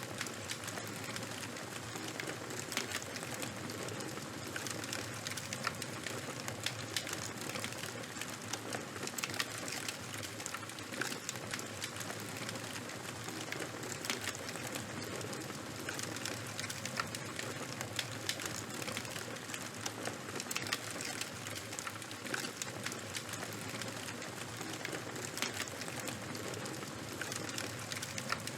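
Fire crackling: a steady hiss with dense, irregular small pops and snaps from burning charcoal and wood.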